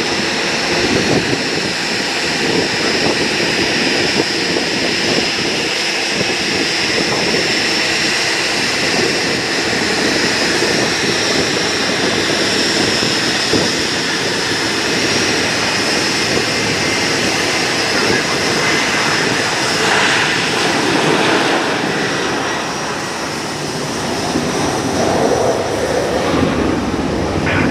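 Jet airliner engines running loud and steady, with a high whine over the roar.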